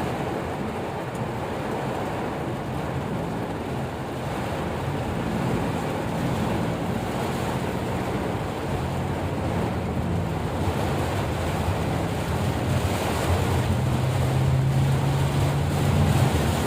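Steady rushing noise of heavy rain and wind with a low vehicle engine hum underneath; the hum shifts in pitch and gets stronger and steadier from about two-thirds of the way through.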